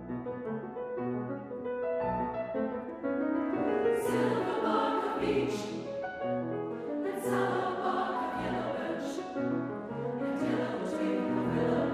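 A women's choir singing a held, slow-moving passage in several parts at once.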